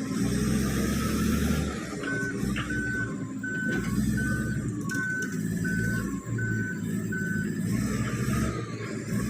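Komatsu D85PX bulldozer's diesel engine running with a low rumble while its reversing alarm beeps eight times at one steady pitch, about one beep every three-quarters of a second, as the dozer backs up.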